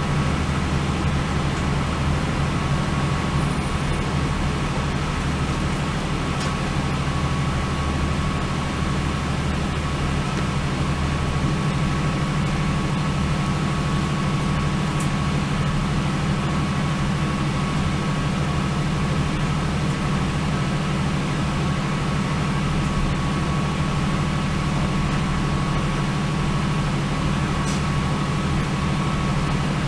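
Northern Ireland Railways diesel train running steadily, a continuous low engine hum with a thin steady whine on top.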